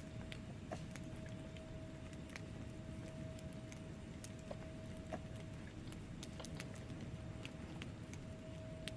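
Wood fire burning in a fireplace: a low, steady rumble of flames with scattered sharp crackles and pops from the logs.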